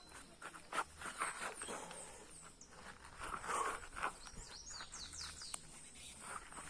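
Small birds chirping in quick high notes, over irregular scuffing footsteps on open ground.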